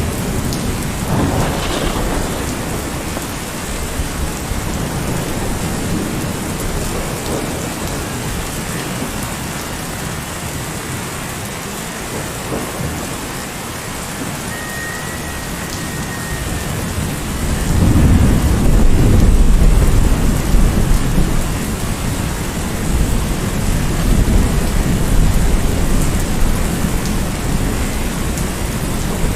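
Heavy rain falling steadily, with a deep rumble of thunder swelling about two-thirds of the way in, the loudest moment.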